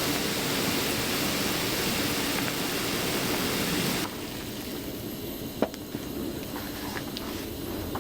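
Steady rushing noise that starts abruptly, then drops to a quieter rushing about four seconds in, with a few sharp clicks in the quieter part.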